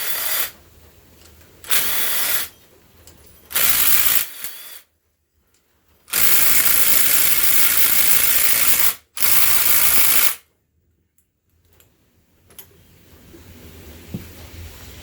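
Handheld power tool run in five bursts, the longest nearly three seconds, spinning out fasteners during an engine teardown.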